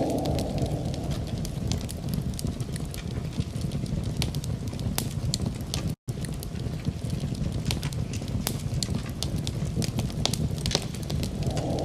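Wood fire crackling in a fireplace: irregular snaps and pops over a steady low rumble. The sound cuts out completely for a split second about six seconds in.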